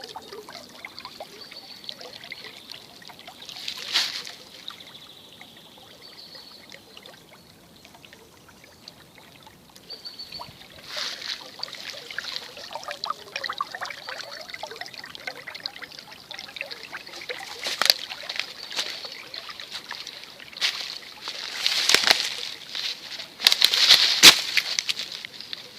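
Spring brook trickling and splashing, quieter at first, then denser and louder in the second half.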